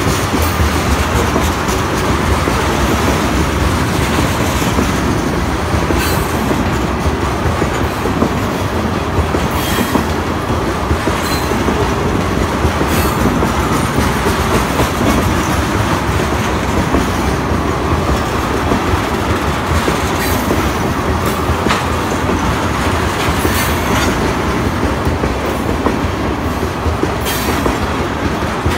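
Freight train of railroad tank cars rolling steadily past, a continuous rumble of steel wheels on rail with sharp clacks as wheels cross rail joints every few seconds.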